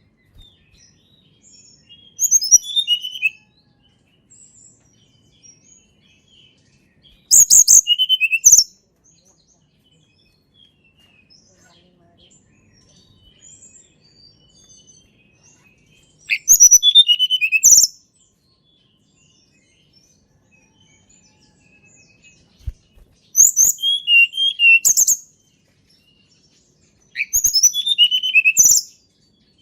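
A tledekan gunung songbird singing five short phrases, each a quick run of high, sharp notes with a few down-slurred notes lower in pitch, with pauses of several seconds between the phrases.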